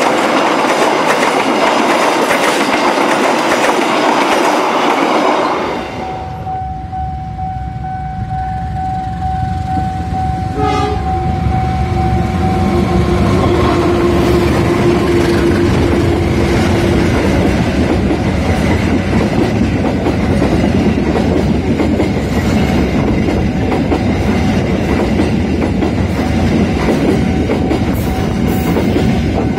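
Passenger coaches rolling past with steady wheel-on-rail noise, cutting about six seconds in to a GE diesel-electric locomotive passing close with a low engine rumble and long steady horn tones, a higher one followed by a lower one, that stop after about ten seconds. Its coaches then clatter past over the rails.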